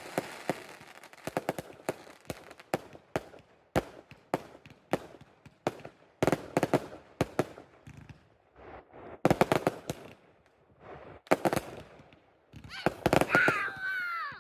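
Fireworks going off: a rapid run of sharp bangs and crackles in several clusters, with the loudest bursts about six, nine, eleven and thirteen seconds in.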